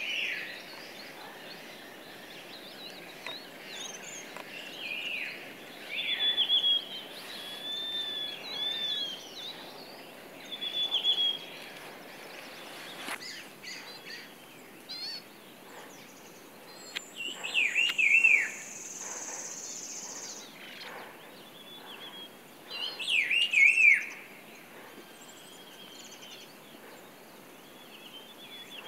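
Wild birds chirping and whistling: a string of short chirps throughout, with two louder falling call series about eighteen and twenty-four seconds in. A steady high hiss runs for a few seconds in the middle.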